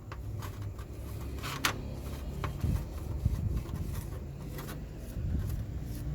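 Light scraping and clicking of small work on a model car, over a steady low hum.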